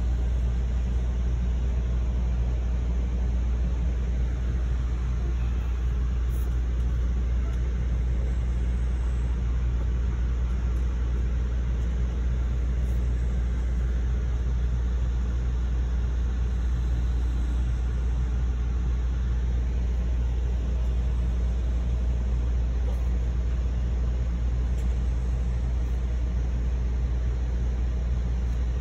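Steady low rumble of an Amtrak passenger train running at speed, heard from inside the coach: the even running noise of the car rolling on the rails.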